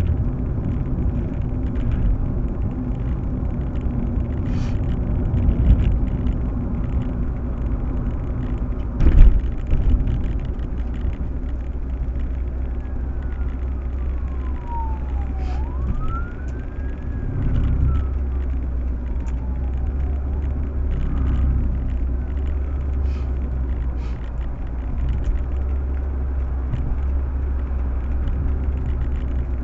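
Steady low road and engine rumble of a Proton Waja 1.6 on the move, with a loud thump about nine seconds in. Partway through, a siren wails down, up and down again over about seven seconds.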